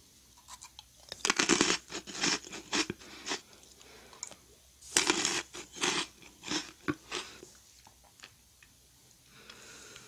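A crisp meringue cookie being bitten and crunched in the mouth close to the microphone, in two clusters of sharp crunches about a second in and again about five seconds in.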